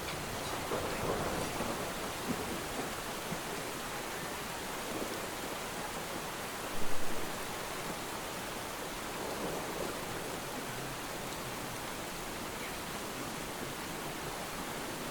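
Steady rain with a short, louder clap of thunder about halfway through.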